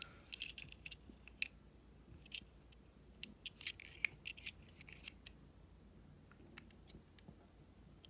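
Small hard-plastic clicks and taps from a Power Rangers Phoenix Mechazord toy being handled, its detachable head being worked off. The clicks come in quick irregular clusters, then thin out over the last few seconds.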